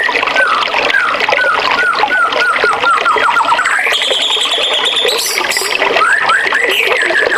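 Rushing stream water with a songbird singing over it: a series of short downward-slurred whistles that speed up, then a rising slide into a higher held note lasting about a second, and more slurred notes near the end.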